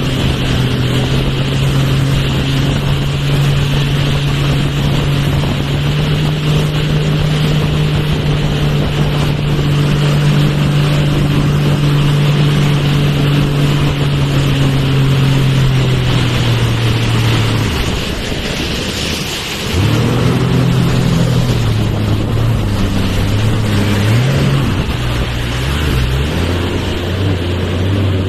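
Motorboat engine running steadily, with wind rushing over the microphone and water noise. About two-thirds of the way in, the engine note drops and briefly falls away, then picks up again at a lower, wavering pitch, as when the boat throttles back and changes speed.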